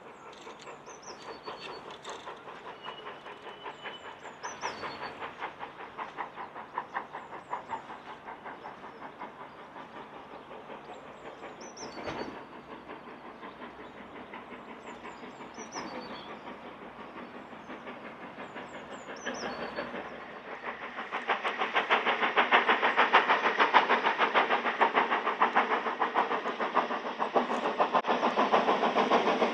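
A train approaching, its fast rhythmic running sound growing much louder about two-thirds of the way in, with birds chirping while it is still distant.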